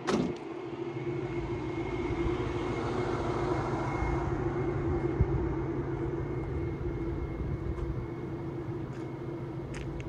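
A 1994 Geo Tracker's four-cylinder engine idling steadily, with a thin steady whine above the low hum. There is a short click right at the start.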